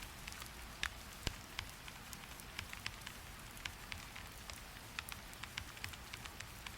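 Rain falling with a steady hiss, with irregular sharp clicks scattered through it, several a second.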